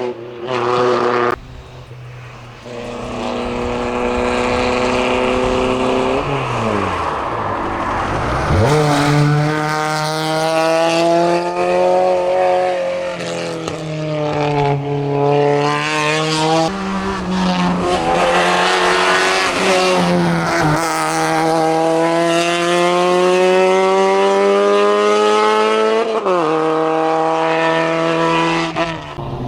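Hillclimb racing cars, a Volkswagen Golf and then a Seat 127, driven flat out, the engine pitch climbing through each gear and dropping at every shift and lift.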